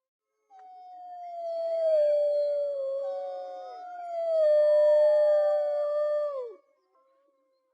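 Wolves howling in chorus: long, overlapping howls at different pitches, one voice joining partway through, the last sliding down in pitch and breaking off about six and a half seconds in.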